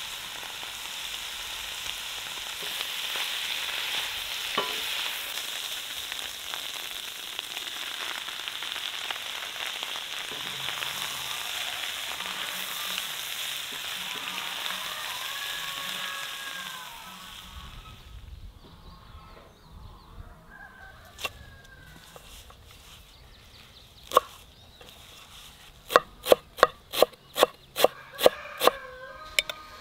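Potatoes and morel mushrooms sizzling steadily as they fry in a cast-iron pan, stirred with a wooden spatula. The frying stops about 17 seconds in. Near the end a knife chops dill and parsley on a wooden board in a quick run of sharp knocks, about three a second.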